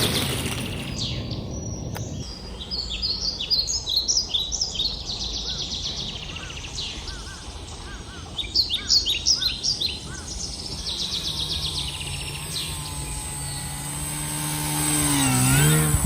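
Birds chirping in repeated short phrases, with the electric motor and propeller of a SkyWing Laser 260 RC plane droning in the background, its pitch rising and falling over the last few seconds.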